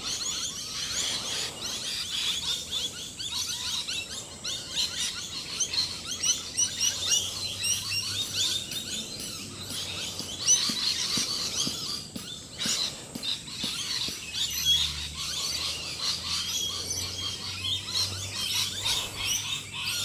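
Dawn chorus of many birds chirping and calling at once, dense and unbroken. A faint low hum comes in underneath about halfway through.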